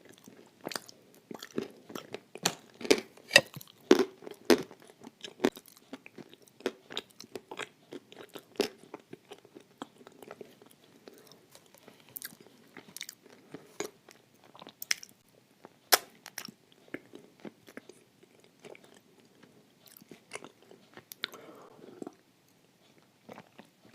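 Close-up crunching and chewing of dry Turkestan clay eaten with blue Uzbek clay paste: sharp, crisp crunches come thick and fast in the first several seconds, then thin out into softer, sparser chewing.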